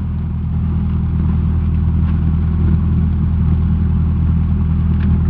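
Cessna 172SP's four-cylinder Lycoming engine running steadily at low power with the aircraft holding short of the runway, a deep even drone.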